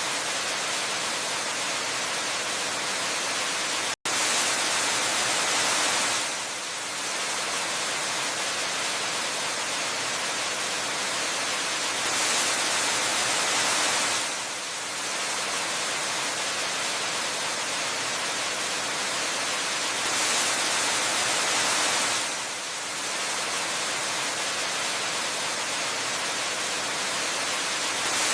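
A waterfall rushing in an unbroken, even hiss that swells louder and brighter for a couple of seconds about every eight seconds. About four seconds in, the sound drops out for a split second.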